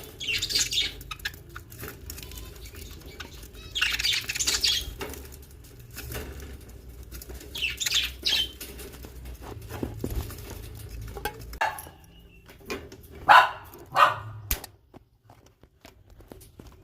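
Baby birds making short, raspy chirping bursts, about four times, then two louder, lower bursts near the end.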